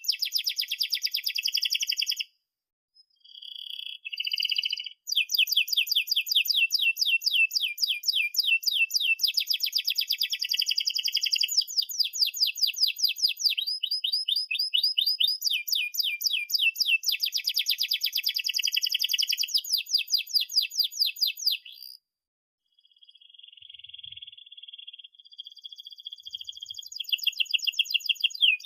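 Domestic canary in full song: long phrases of fast, evenly repeated chirps and rolling trills. There is a short break about two seconds in and another about twenty-two seconds in.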